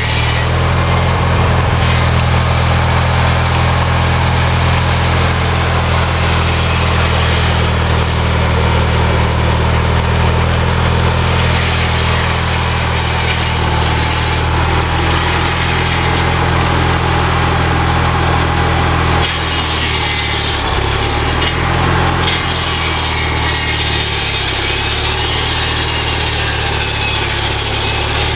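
Homemade sawmill built from lawnmower parts running, its small engine holding a steady note under a dense, hissing saw noise. About two-thirds of the way through, the engine note dips and wavers for a few seconds, then steadies.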